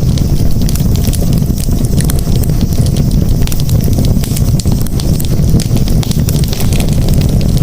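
Campfire burning with a steady low rumble of flames and frequent sharp crackles and pops of burning wood.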